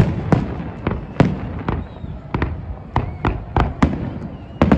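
Fireworks salute: about a dozen aerial shells bursting in quick, irregular succession, sharp bangs each trailing off in a short echo.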